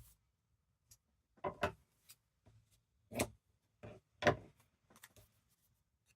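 Paper and card pieces being handled and set down on a craft table: a handful of short rustles and taps with quiet between them.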